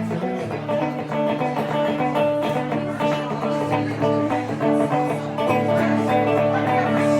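Rockabilly band playing live: a guitar riff over a steady bass line, with no singing.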